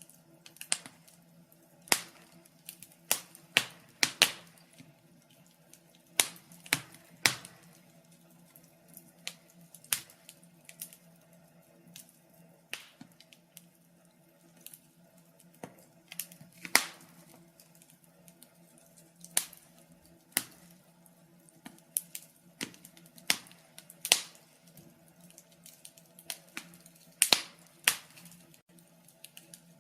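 Fire crackling: irregular sharp pops and snaps, one or two a second at uneven spacing, some much louder than others, over a faint steady low hum.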